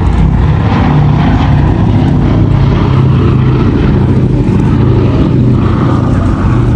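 Piston engines of a propeller aircraft running loudly in flight, a steady low drone.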